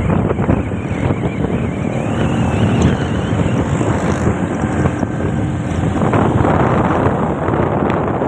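Wind rushing over the microphone on a moving motorbike, mixed with engine and road noise.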